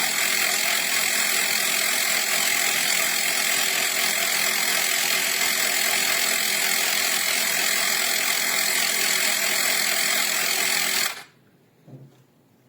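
CYCPLUS 150 PSI cordless mini air compressor running steadily with a buzzing motor and piston noise, then cutting off abruptly near the end; a faint short knock follows.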